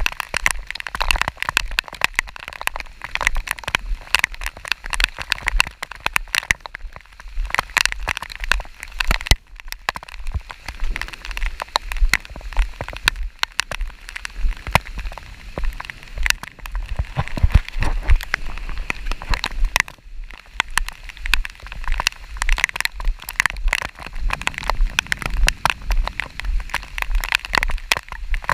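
Rain falling, with many close raindrops ticking irregularly over a constant low rumble.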